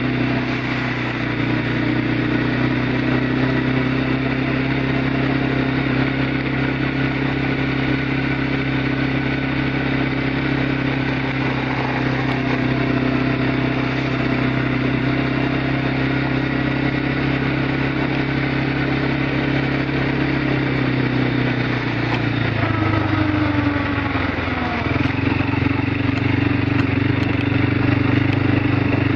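Four-wheeler (ATV) engine running steadily. About three quarters of the way through its pitch dips and then settles again, a little louder near the end.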